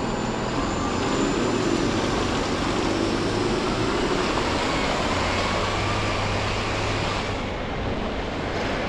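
Steady city traffic noise heard from a moving car: engine hum and tyre noise on the road, with the high hiss easing a little near the end.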